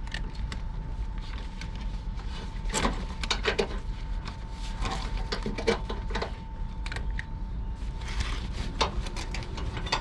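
Steady low rumble inside a MAN TGX lorry cab, with irregular clicks and rattles and a faint steady high tone.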